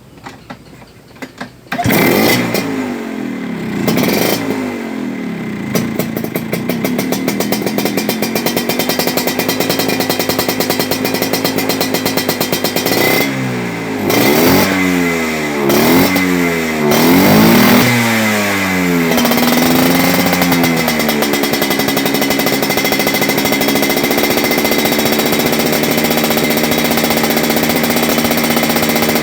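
Vespa scooter engine fitted with a racing exhaust, started about two seconds in, revved in several quick blips and then left idling steadily.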